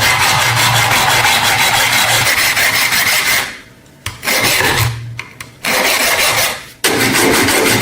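A rotary abrasive power tool working the rusted steel of the scissors, run in bursts: one long run of about three and a half seconds, then shorter runs with brief breaks in the middle and again near the end.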